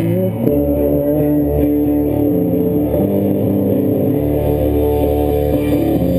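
Live band music led by guitar, with sustained notes over a bass line that moves every second or so.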